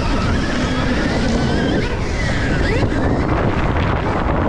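Stark Varg electric dirt bike riding, its motor's whine sliding up and down in pitch a couple of times through the middle, under heavy wind buffeting on the microphone.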